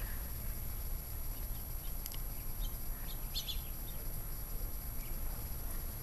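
Faint chirps of small birds, a short cluster a little past halfway through, over a steady low rumble.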